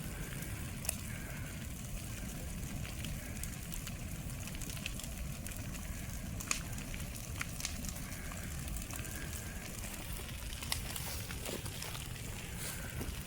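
Brush pile fire burning: scattered sharp crackles and pops over a steady low rumble.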